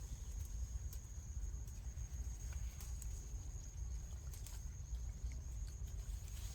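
Outdoor ambience: a steady low rumble, like wind on the microphone, under a constant thin high-pitched tone, with a few faint clicks.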